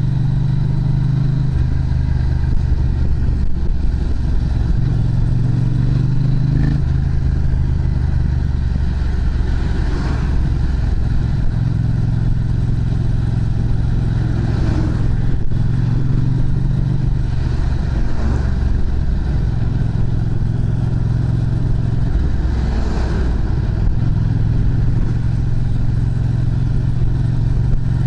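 Yamaha MT-07 parallel-twin engine running through an aftermarket muffler, its note stepping between steady engine speeds several times.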